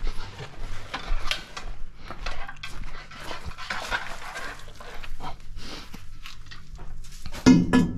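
Irregular metallic scraping and clattering from inside a New Holland CX5090 combine as its mechanism is turned over. Something inside is rubbing, which the men think is possibly the tailings (unthreshed-return) elevator chain rather than a belt.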